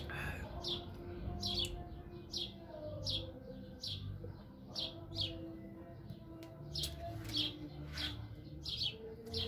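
A small bird chirping over and over: short, high chirps that fall in pitch, about one or two a second.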